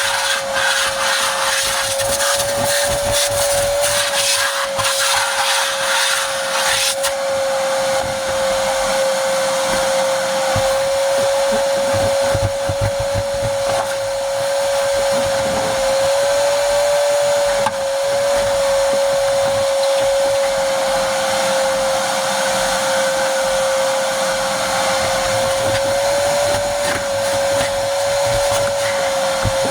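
Vacuum cleaner running steadily while cleaning a car interior: a whine at one pitch that wavers slightly as the nozzle is moved about, over a steady rush of air. Over the first seven seconds or so a dense patter of rattling clicks comes through, debris being sucked up the nozzle.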